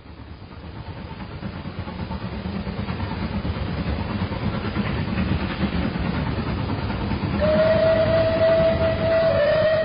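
A train running: its low rumble fades in and grows steadily louder. A long, steady whistle starts about seven and a half seconds in and shifts slightly in pitch near the end.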